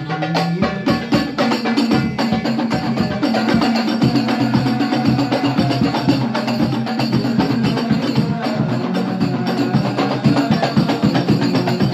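Darbuka drumming by a banjari ensemble: a dense, fast run of hand strokes without a pause, over a steady pitched accompaniment.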